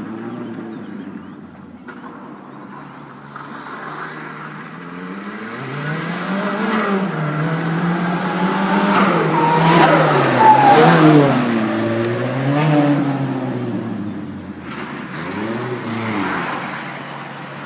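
Renault 5 turbo car's engine revving and changing up through the gears, its pitch climbing and dropping several times. It grows louder to a peak about ten seconds in, then falls away, with another short burst of revs near the end.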